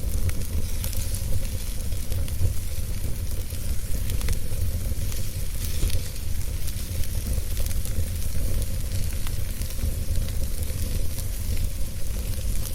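Wood fire burning in a fireplace: a steady hiss with scattered sharp crackles and pops over a constant low rumble.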